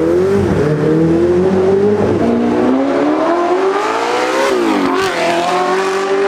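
Car engine accelerating hard through the gears: its pitch climbs steadily and drops sharply with an upshift about two seconds in and again near five seconds, then climbs again.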